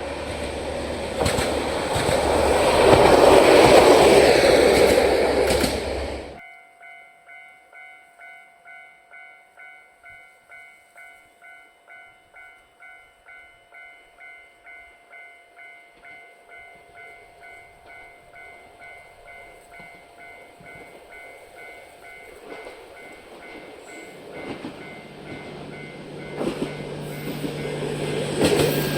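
A single-car diesel railcar passes close by, its rumble and rail noise loudest about three to four seconds in, and the sound cuts off suddenly. Then a Japanese level-crossing bell rings its 'kan kan' steadily, about twice a second. Near the end a train's engine hum and rail noise grow louder as it approaches.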